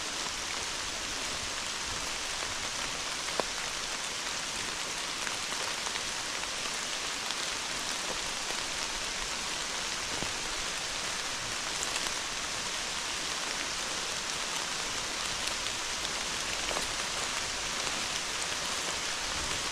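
Steady hard rain falling through the tree canopy: an even hiss with a few sharper drop hits.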